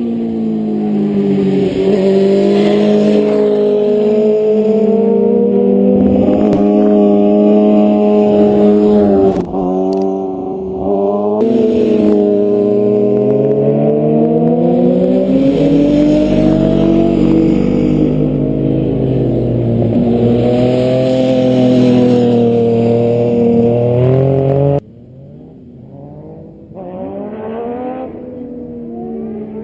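Several motorcycles passing one after another, their engine notes overlapping and rising and falling in pitch as the riders accelerate and back off through the bends. The sound breaks off briefly about ten seconds in. Near the end it drops suddenly to a quieter bike that grows louder as it approaches.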